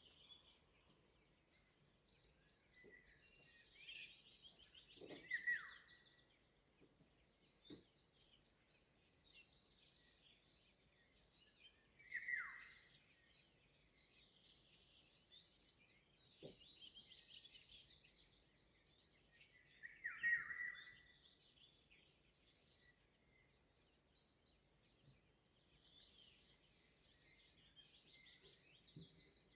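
Faint spring woodland bird chorus, several birds chirping and singing at once. Three times, about seven seconds apart, a louder call slides downward in pitch.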